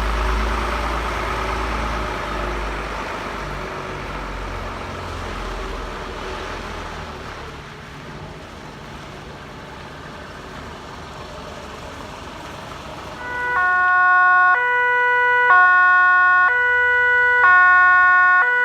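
1990 Scania fire truck's engine running, its rumble fading over the first several seconds. About two-thirds of the way in, its two-tone siren starts loud, switching between a high and a low note roughly once a second.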